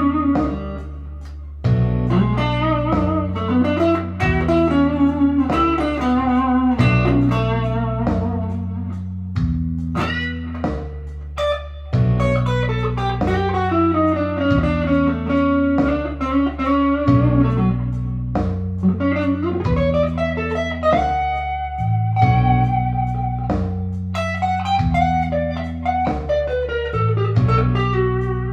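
Firefly FFST electric guitar played on a clean tone: blues-style single-note lines with string bends and slides. Held low bass notes change every second or two underneath.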